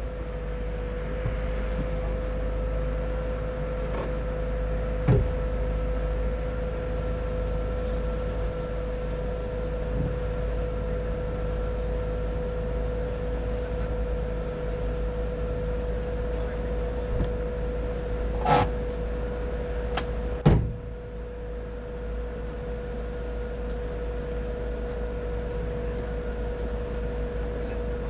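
VAZ 2107 engine idling, a steady low hum carried through the bonnet-mounted camera, with a faint steady tone over it. A few scattered clicks and knocks, the loudest near the end of the middle stretch.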